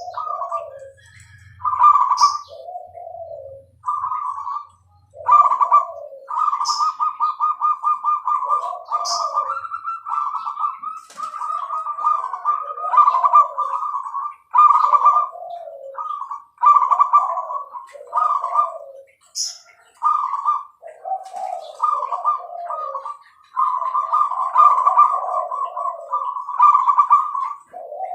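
Zebra dove (perkutut) cooing over and over in rolling, trilled phrases, with high and low notes alternating. Short high chirps cut in now and then.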